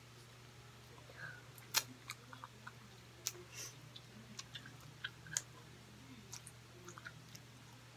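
Close-up chewing of grilled meat on skewers: faint scattered wet clicks and smacks from the mouth, with a few sharper ticks.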